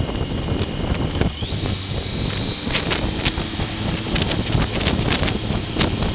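Heavy wind buffeting on a motorcycle-mounted action camera's built-in microphone at riding speed, with frequent sharp crackles. A faint high whine sits beneath and steps up in pitch about a second and a half in.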